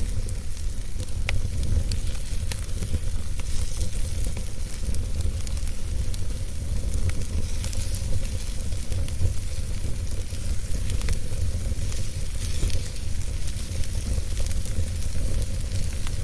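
Wood fire burning in a fireplace: a steady low rumble and hiss of flames with scattered sharp crackles and pops from the burning logs.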